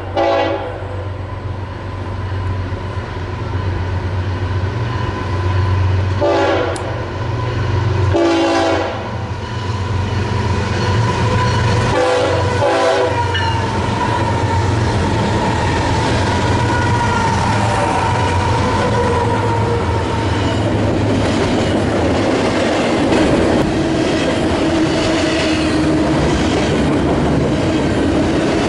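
BNSF freight train's diesel locomotives approaching and passing close by, the air horn sounding several blasts in the first half: a short one at the start, another around six seconds in, a longer one around eight seconds, and two short ones near twelve seconds, over the low drone of the engines. After that the double-stack container cars roll past with steady wheel clatter on the rails.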